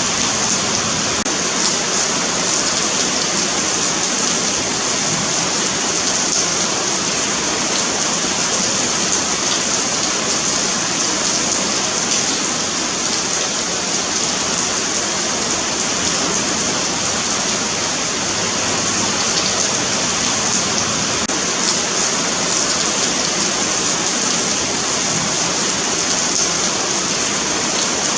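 Steady rain falling on a paved sidewalk: a dense, even patter of drops with a bright hiss and no let-up.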